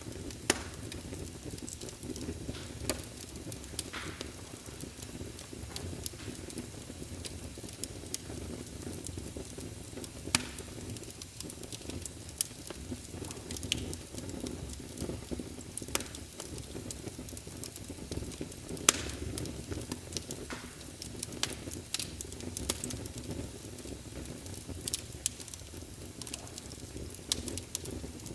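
Wood fire in a fireplace crackling: irregular sharp pops and snaps over a steady low rumble of the flames, with a few louder pops, the loudest about half a second in, about ten seconds in and near nineteen seconds.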